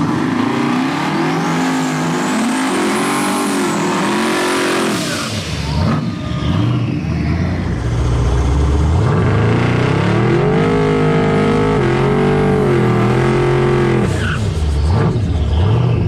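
Engine of a big-rim box-body Chevrolet sedan on 26-inch wheels revved hard through a burnout, the revs held high and wavering with the rear tyres spinning and squealing. About halfway through the revs drop briefly, then climb and hold again.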